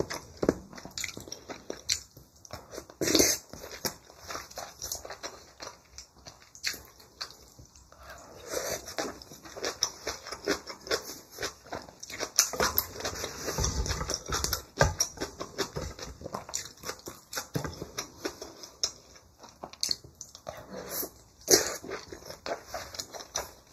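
Close-miked eating sounds: wet chewing and smacking of mouthfuls of rice and kimchi, dense small clicks with a few sharper, louder ones.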